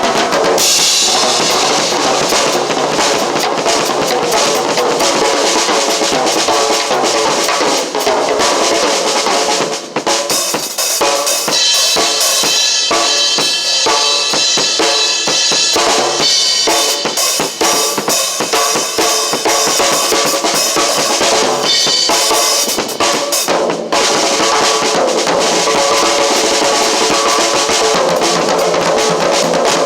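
Drum kit played continuously, with bass drum and snare hits throughout, over pitched music, with short breaks in the pattern about ten seconds in and again near twenty-four seconds.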